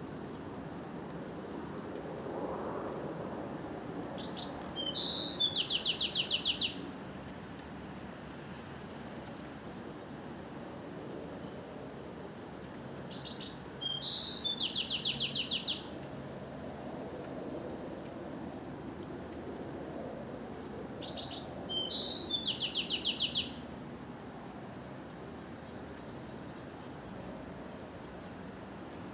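A songbird repeats its song three times, about eight seconds apart: each song is a few high notes followed by an even, rapid trill. Other birds chirp high and continuously between the songs, over a low, steady background hum of outdoor noise.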